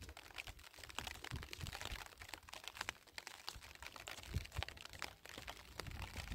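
Faint, irregular crunching and crackling of dry earth and straw underfoot, with a few soft thuds.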